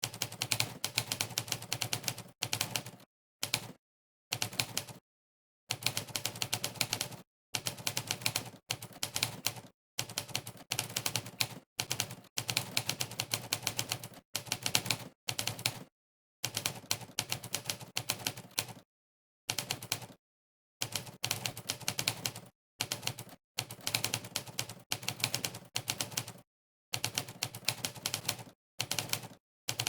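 Typewriter keypress sound effect from the Monkeytype typing site: rapid runs of typewriter-like key clacks, one per keystroke, in bursts of a second or two broken by short dead-silent pauses.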